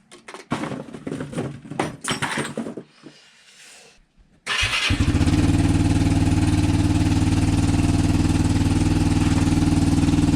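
A few seconds of clicks and rattles, then about halfway through the Royal Alloy GP125 scooter's 125cc single-cylinder four-stroke engine, fitted with an aftermarket exhaust, starts and settles straight into a steady idle.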